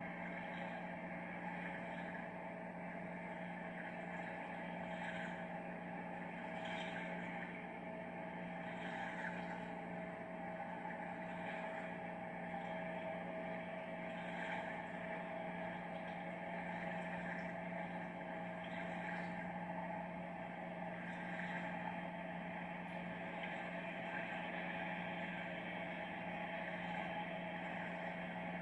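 Boat engine running with a steady, even drone and hum.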